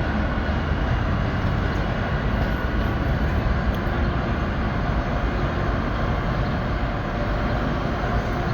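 Steady low rumble of heavy vehicle or machinery noise with no clear rhythm or change.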